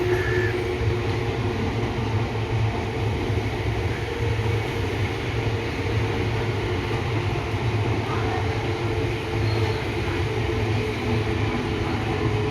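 Train running along the track with a steady rumble.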